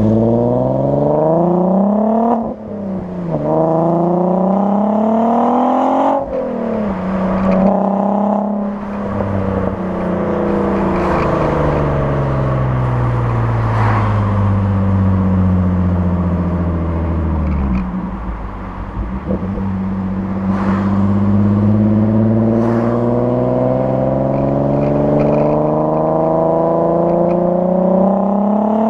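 Mk5 Golf R32's VR6 engine through a decatted Powerflow exhaust, accelerating hard: the pitch climbs, drops sharply at gear changes about 2.5 and 6 seconds in, then falls slowly as the car slows before climbing again near the end.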